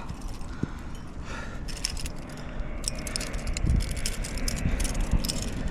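Metal climbing gear (carabiners, nuts and cams racked on a harness) clinking and jangling in quick irregular bursts as the climber moves up the rock, over a low rumble.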